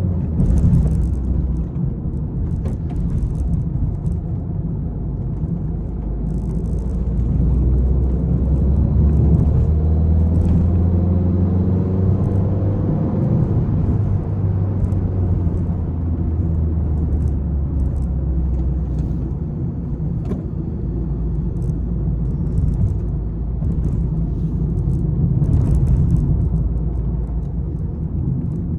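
Peugeot 301 car being driven hard, its engine running under load with a steady low drone. About a quarter of the way in, the engine note climbs in pitch as the car accelerates. Scattered light ticks sound throughout.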